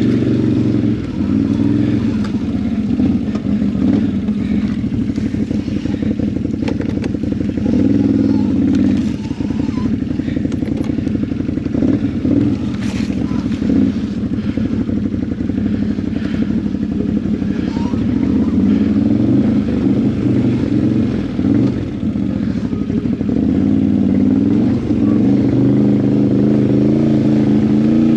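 ATV engine running at low, uneven revs, its pitch rising and falling as the machine crawls slowly over rocky ground, with occasional knocks and clatter.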